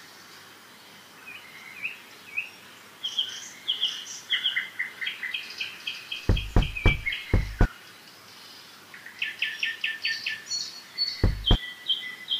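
Birds chirping in quick runs of short, high repeated notes. A cluster of four dull knocks comes about halfway through and one more near the end.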